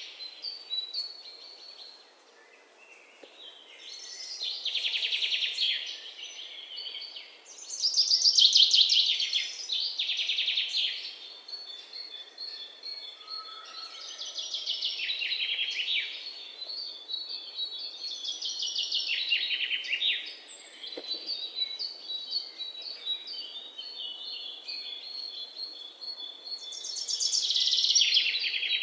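Songbirds singing: loud phrases of fast trilled notes recur every few seconds, while a second bird repeats short high notes steadily through the middle, over a faint outdoor hiss.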